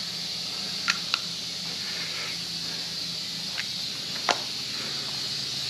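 Compressed air hissing steadily from a leaking air-hose connection, with a few faint clicks.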